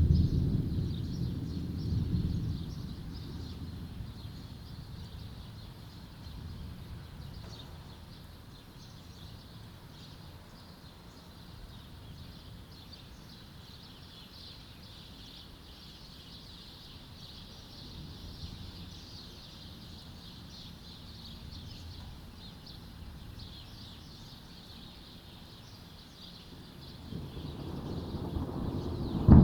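Thunder rumbling, fading away over the first few seconds, with small birds chirping steadily throughout; near the end a new low rumble of thunder starts to build.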